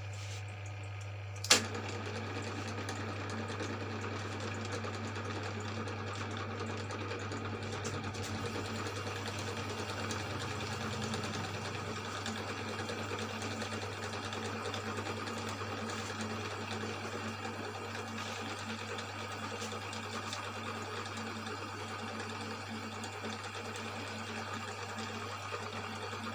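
Electric motor of a cylinder boring machine running steadily with a low hum, smoothing the bore of a Yamaha Mio M3 cylinder block. A sharp click about a second and a half in, after which a steady cutting hiss sits over the hum.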